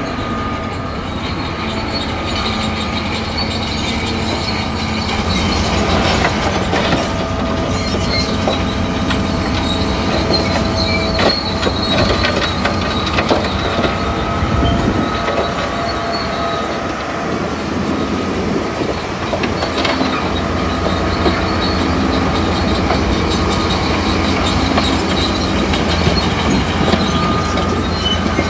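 Crawler bulldozer working in mud: its diesel engine runs steadily under a high squeal and frequent clanking from the steel tracks.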